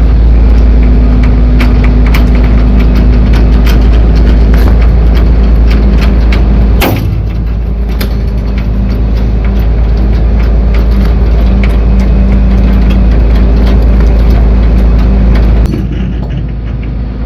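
Diesel engine of a Kenworth T800 deck truck running steadily while it pulls a 20 ft steel shipping container, with scattered clicks and knocks. A sharp bang comes about seven seconds in, and the sound is quieter after it, dropping again near the end.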